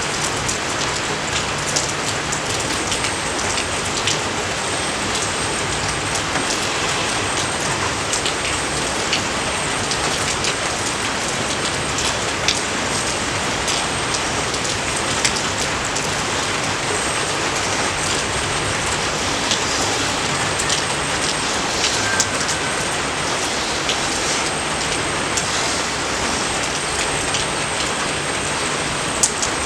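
Steady rain falling on rice paddies, a dense even hiss with scattered individual drops landing.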